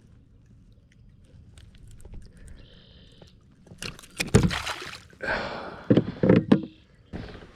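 Water splashing and knocking around a fishing kayak. It starts faint, then comes a cluster of loud, sharp splashes and knocks in the second half.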